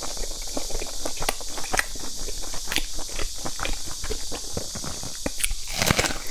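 Close-miked chewing of a mouthful of steamed dumpling: quick wet smacks and clicks. About six seconds in comes a louder bite.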